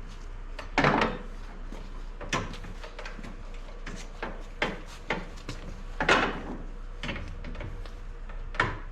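Irregular knocks and clunks as a trailing arm and its bolts are worked into their mounts by hand. The loudest knock comes about a second in and another about six seconds in.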